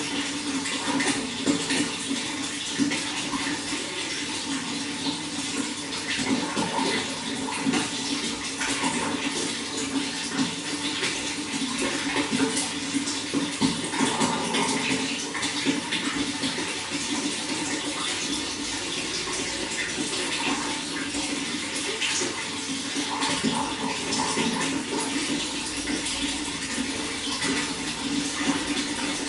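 Running water flowing and splashing steadily, an even rushing sound with small splashes throughout.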